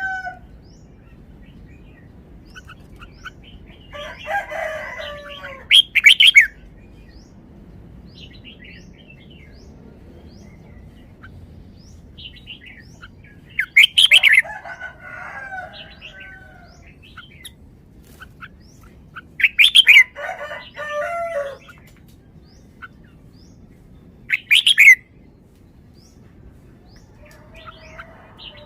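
Red-whiskered bulbul singing short, loud whistled phrases in about four bursts several seconds apart, with faint chirps between.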